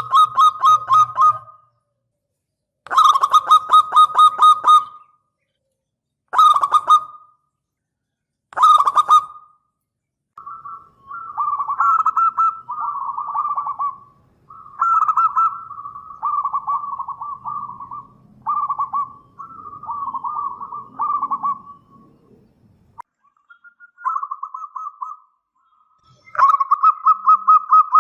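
Zebra dove (perkutut) cooing in phrases of rapid staccato notes, repeated with short pauses. Four loud phrases come in the first nine seconds, then a longer run of shorter, softer phrases, and the loud phrase returns near the end.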